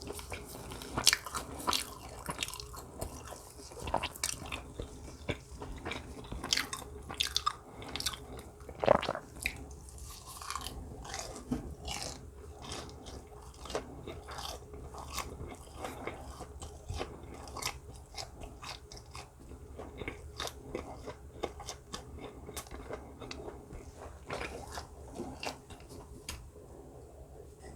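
Close-miked chewing and biting of food, with crisp crunchy bites and wet mouth sounds coming at an irregular pace. The loudest bite comes about nine seconds in.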